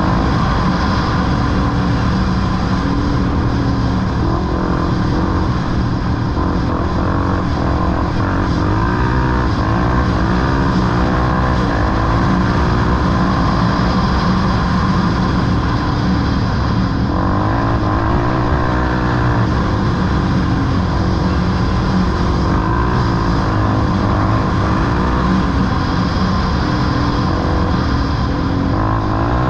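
Off-road vehicle engine running continuously, revving up and down again and again as it is ridden, over a steady engine drone.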